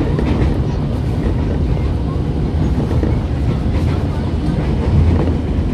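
Electric commuter train running at steady speed, heard from inside the car: a constant low rumble of wheels on rail with running noise.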